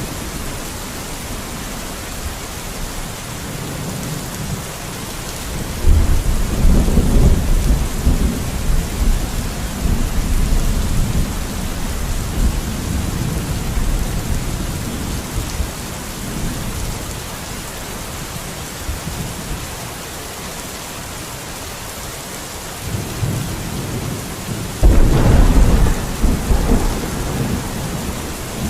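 Steady rain hiss, with two low rolls of thunder rumbling in suddenly, one about six seconds in and a louder one near the end, each fading over a few seconds.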